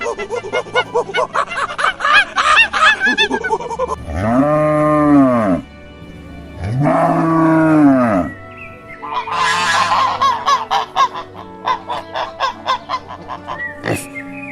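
Waterfowl honking: a run of quick honks, then two long drawn-out calls that rise and fall in pitch, then more quick honks, over background music.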